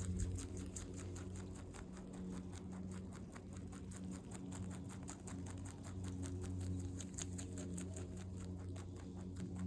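Rabbit chewing clover: a fast, even run of small crunching bites, several a second, over a steady low hum.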